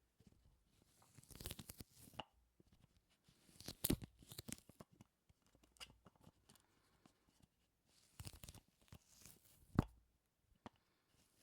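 Close-miked ASMR sticky sounds: soft, irregular clusters of crackling, peeling clicks as something tacky is pulled apart, with one sharper snap near the end.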